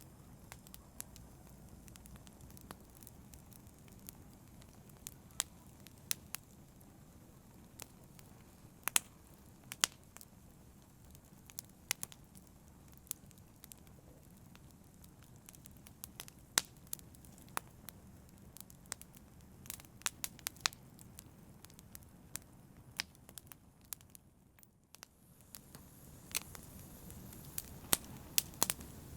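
Campfire burning: wood crackling with frequent irregular sharp pops over a low steady rush of flame. About two-thirds of the way through it drops briefly, then comes back a little fuller.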